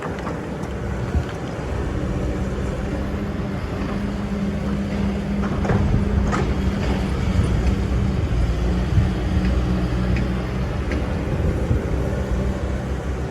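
Excavator engine running steadily, getting a little louder as it works, with a few short knocks about six seconds in.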